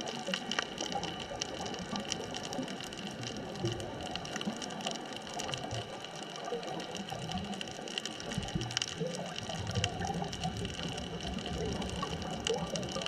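Underwater ambience: a steady hiss with scattered sharp clicks and a constant high hum, with a patchy low rumble that comes and goes.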